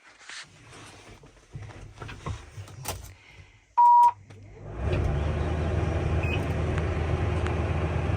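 A few knocks and clicks, then a single short electronic beep from the Massey Ferguson 5S.145 tractor's cab. The tractor's diesel engine starts about a second later and settles into a steady idle.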